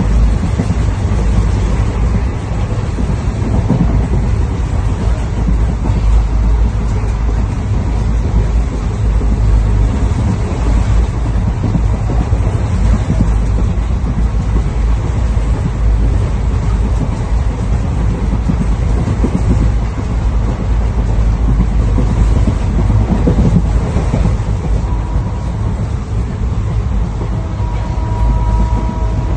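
Steady, loud rumbling noise of a moving train. Near the end a brief steady tone comes in over it.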